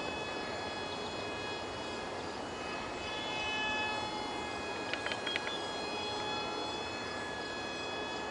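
Micro RC plane's 8 mm electric motor and direct-drive propeller whining steadily in flight, over a constant hiss. A few short clicks come about five seconds in.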